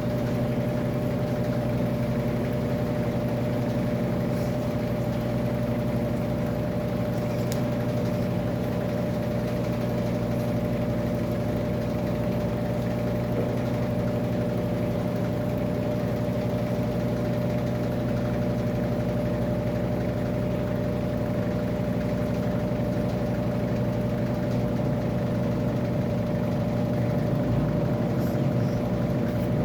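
Electrolux LAC13 top-load washing machine running steadily: a constant motor hum with a few steady tones and no pauses or rhythm, as in a steady spin.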